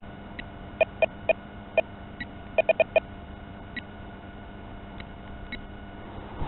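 A string of short electronic beeps, all at the same pitch and irregularly spaced, with most in the first three seconds and a few more near the middle, over a faint steady hum.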